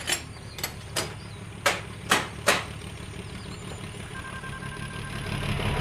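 An engine idling with a steady low hum, with six sharp knocks or clanks over the first two and a half seconds.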